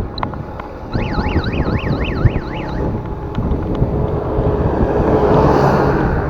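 A warbling siren-like tone that rises and falls about four times a second for roughly two seconds, over wind and road noise. Then a motor vehicle passes close, its noise swelling and fading near the end.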